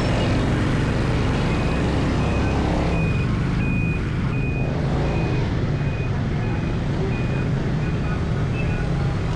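Steady motorbike ride and traffic noise, with rushing wind and engine rumble. Over it, a high electronic beep repeats about one and a half times a second, starting about three seconds in.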